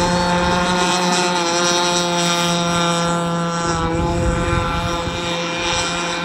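Gas two-stroke engine of a ProBoat Rockstar 48-inch RC catamaran running through its tuned pipe at a steady pitch, dipping briefly about four seconds in. The engine is new and still being broken in.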